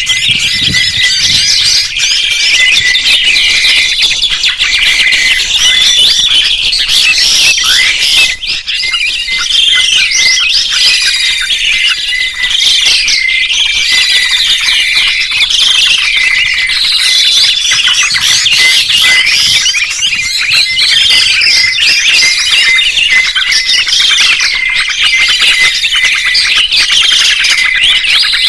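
Songbirds chirping and singing, a dense, loud run of quick rising and falling high notes with no pauses.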